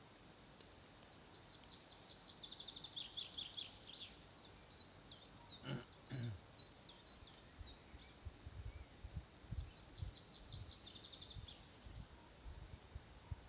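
A songbird singing fast, high trills of chirping notes in two bouts, with low dull bumps near the end.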